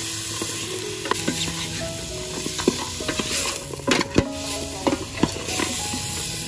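Food sizzling in a hot pan as it is stirred, with a utensil clicking and scraping against the pan several times.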